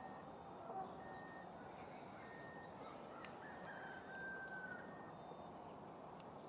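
Faint open-air ambience: a steady hiss with a few distant bird calls, one of them drawn out about four seconds in.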